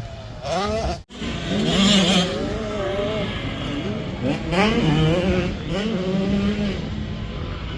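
85cc two-stroke motocross bikes revving on a track, with more than one engine heard at once. Their pitch climbs and drops again and again as the riders work the throttle. The sound cuts out for an instant about a second in.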